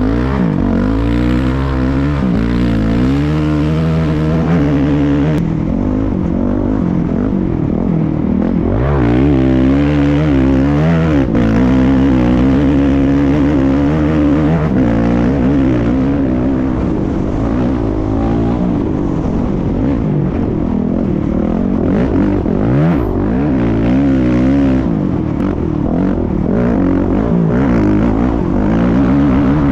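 Honda 450 dirt bike's single-cylinder four-stroke engine running hard at race pace, its pitch rising and falling again and again as the rider accelerates and backs off.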